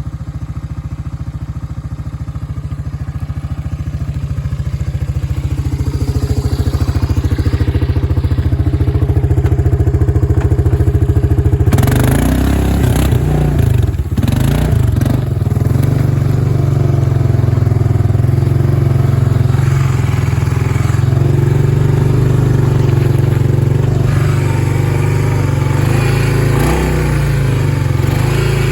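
1996 Honda Big Red 300 quad's engine running at a steady pace that slowly grows louder, then about twelve seconds in it is revved and works harder, unevenly, with rattling, the revs rising and falling.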